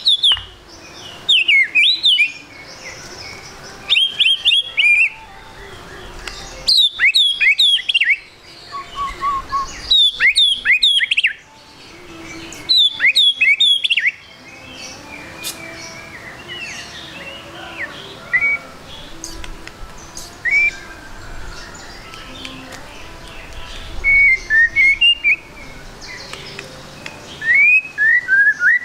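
White-rumped shama (murai batu) singing in loud bouts of rapid, sweeping whistled notes, one every few seconds through the first half, then softer scattered calls.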